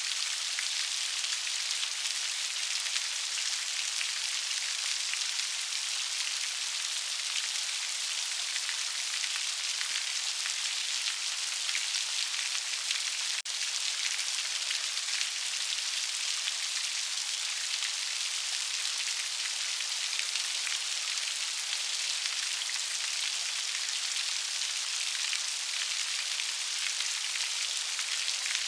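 Steady rain: a dense, even hiss of many small raindrops falling without letup.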